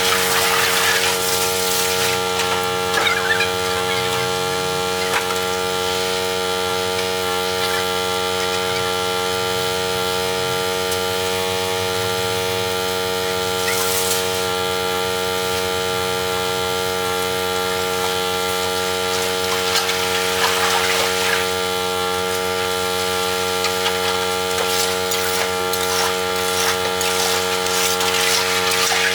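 A steady motor hum holding one even pitch, with short bursts of hiss a few times.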